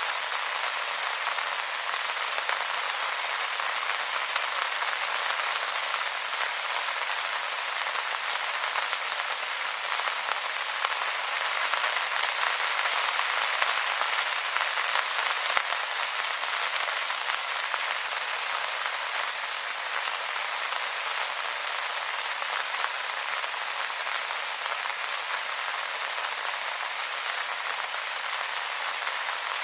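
Steady rain pattering on wet leaves, a dense even hiss of many small drop ticks.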